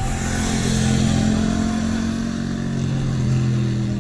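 Motorcycle engine running at a steady speed, a constant hum with a hiss of wind and road noise over it.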